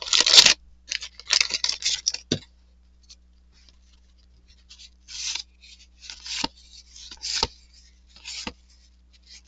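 Vintage trading-card packs being opened and the cardboard cards handled: scratchy rustling and sliding of wrapper and cards in short bursts, a pause of about two seconds, then several quick swipes, the last three each ending in a light tap.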